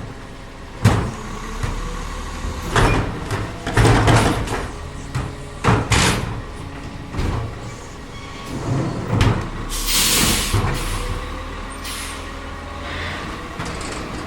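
CCC LET2 garbage truck running, with its Heil split-hopper body at work: repeated bangs and clattering as trash goes into the hopper, and a short burst of air hiss about ten seconds in.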